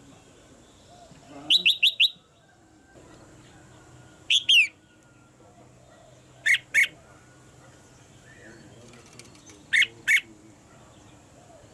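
Red-whiskered bulbul calling in short, sharp, loud notes: a quick run of four notes near the start, then pairs of notes every two to three seconds.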